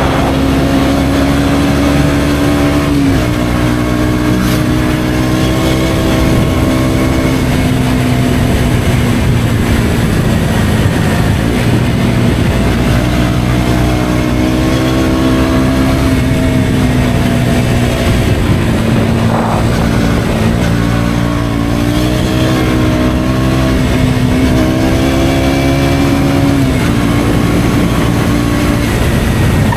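KTM Duke 125's single-cylinder four-stroke engine through an Akrapovic exhaust, pulling under way. The engine note climbs with throttle and drops sharply twice, near the start and near the end, as the rider shifts or rolls off.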